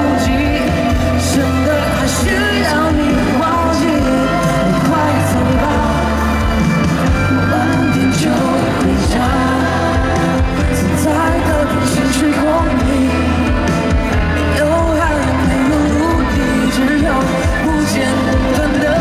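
Live pop music at a concert: a band playing with singing over it, loud and steady throughout.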